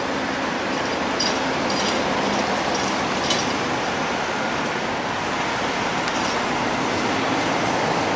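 Steady road noise of heavy haulage trucks on the move, tyres and engines blending into one even rumble, with a few faint light rattling clicks in the first few seconds.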